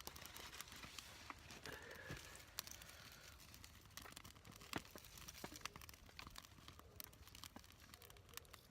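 Faint crackling of a small, freshly lit tinder fire, with rustling and crinkling of dry fine material being fed onto it by hand. Scattered sharp snaps, the loudest a little under five seconds in.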